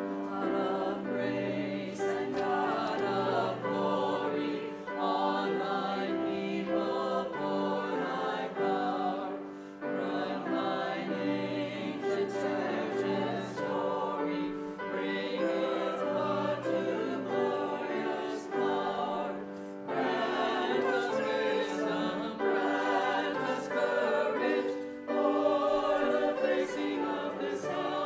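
A choir singing a hymn in harmony over steady held accompaniment, in phrases with brief breaths between them.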